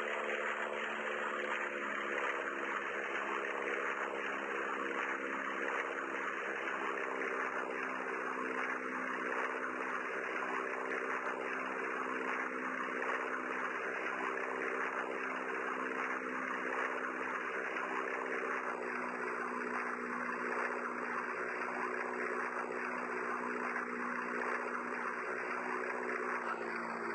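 A steady engine drone with a constant hum and rushing noise, its pitch stepping slightly lower twice, about two-thirds of the way through and near the end.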